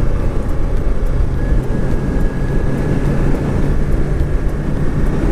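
Motorcycle engine running at a steady pace on the move, with steady wind rush on the microphone.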